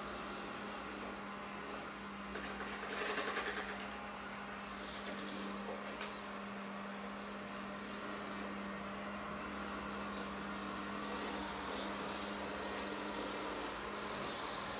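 Ecovacs Deebot OZMO T5 robot vacuum running, a steady motor hum with brush and suction noise, and a brief louder burst about three seconds in.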